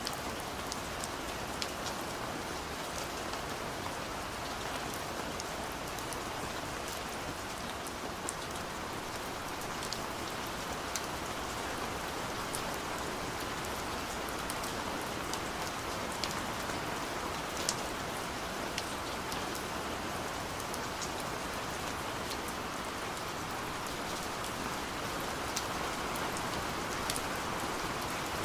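Steady rain falling, a continuous hiss with scattered sharp drop ticks.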